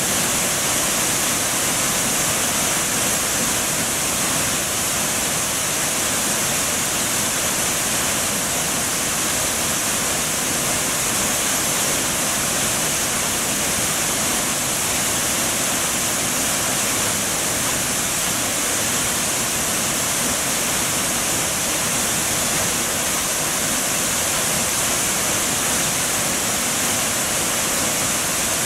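Steady rushing of a waterfall: an even, unbroken wash of falling water with a bright hiss on top, and no bird calls standing out.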